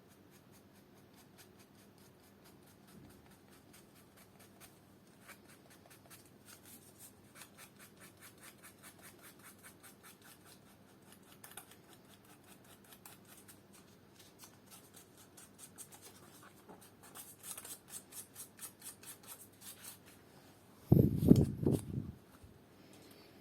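Fine 600-grit sandpaper rubbed over shoe leather in quick back-and-forth strokes, about four a second, while polyurethane glue is sanded into the surface. Near the end there is a brief loud low thud.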